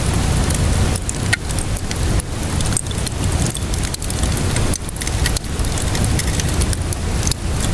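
Steady rainfall with a deep rushing low end, mixed with a wood fire crackling in irregular sharp pops and snaps.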